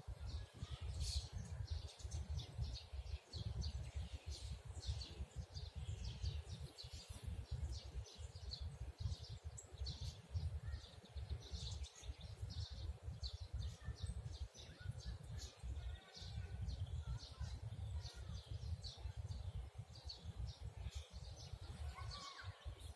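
Many small songbirds chirping and twittering in quick, overlapping calls, over a loud, uneven low rumble.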